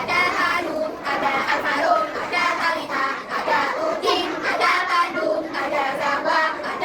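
Group of young children singing together.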